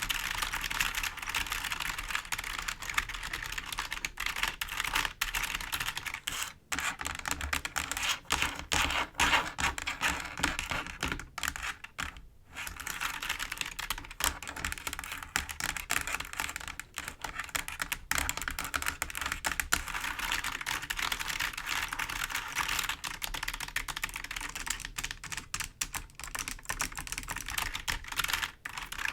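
Fingers tapping and scratching on a computer keyboard's keys: a dense, fast run of clicks, broken by two brief pauses.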